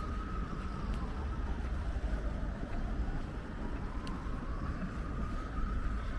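Wind rumbling on the microphone over city street noise, with a faint emergency-vehicle siren wailing slowly up and down, peaking at the start and again about five seconds in.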